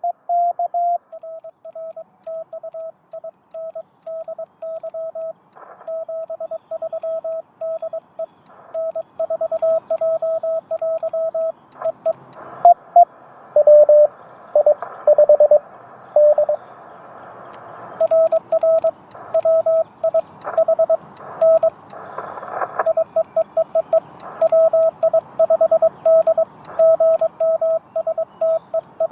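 Morse code (CW) tones from a Yaesu FT-891 transceiver: a single steady tone keyed on and off in dots and dashes. Near the middle, a slightly lower-pitched keyed tone comes through amid receiver hiss, and faint clicks sound alongside the keying in the second half.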